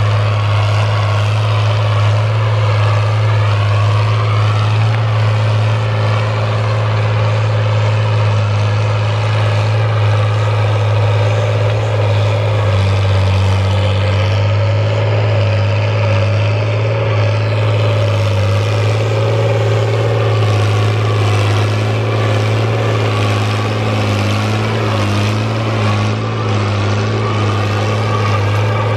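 Fiat 1000 DT tractor's diesel engine running steadily under load while deep plowing, with a slight change in pitch about halfway through.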